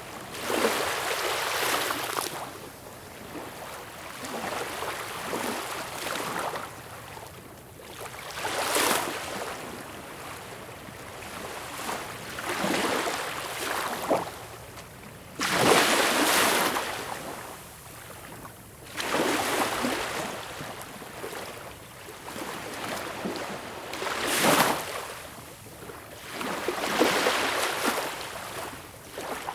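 Sea waves breaking on a beach: a loud surge of surf every few seconds, with a softer wash and hiss of water between the breakers.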